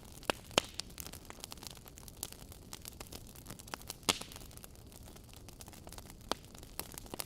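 Wood fire burning in a fireplace: a soft steady hiss under frequent irregular crackles and pops, two sharper pops standing out, about half a second in and about four seconds in.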